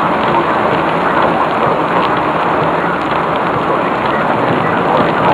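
Heavy rain falling steadily during a thunderstorm: a dense, loud hiss with scattered ticks of individual drops.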